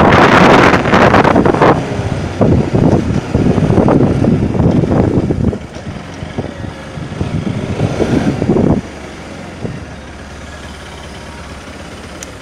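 Pulsar NS200 motorcycle's single-cylinder engine, ridden at low speed with heavy wind noise on the camera, then slowing. About nine seconds in it settles to a steady idle as the bike stops.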